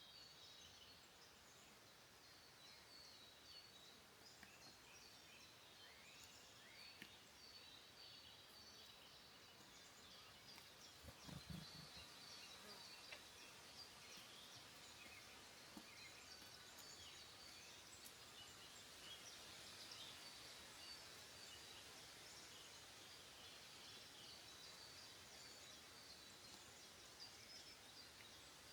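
Faint woodland ambience: many small songbirds chirping and trilling quietly in the distance over a steady hiss, with one soft low thump about halfway through.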